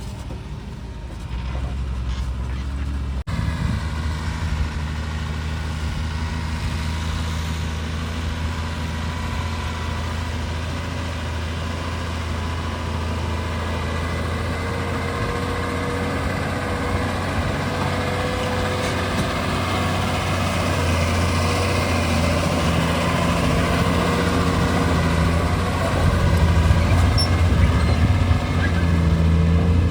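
Heavy diesel engine running steadily under work with a deep, even drone, getting louder in the last few seconds.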